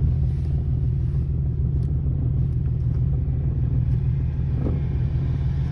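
Nissan 370Z's V6 engine running with a steady low drone, with a few faint clicks about two and four seconds in. It is the car in which the owner is chasing a clunking rattle that he thinks must come from the clutch.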